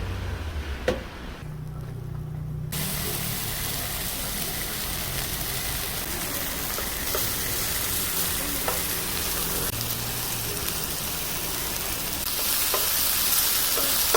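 Pork sizzling as it grills: a steady frying hiss that starts suddenly about two and a half seconds in and grows louder near the end. Before it there is a short quieter stretch with a low hum and a single knock.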